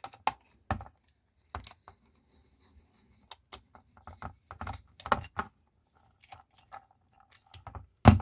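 Small metal parts of a cast-iron table vice clinking and knocking irregularly as it is taken apart, with a sharp metal knock near the end.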